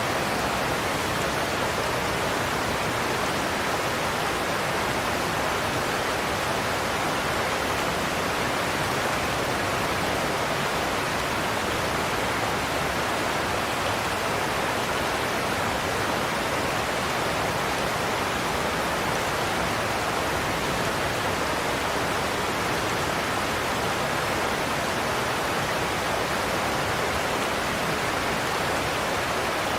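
Godafoss waterfall: a large volume of water falling over the cliffs and crashing into the pool below, making a steady roar.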